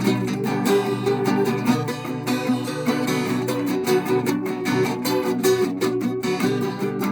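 Background music: acoustic guitar strummed and picked at a steady pace.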